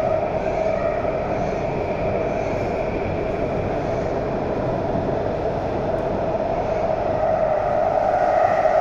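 Shenzhen Metro Line 11 train running between stations, heard from inside the car: steady rumble and hiss with a constant hum, growing a little louder near the end.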